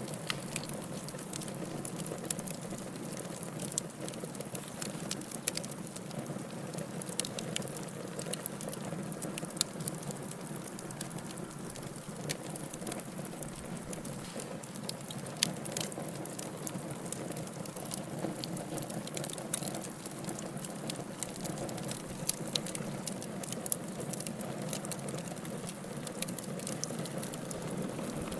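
Wood fire in a fireplace crackling: irregular sharp pops and snaps scattered over a steady hiss of the flames.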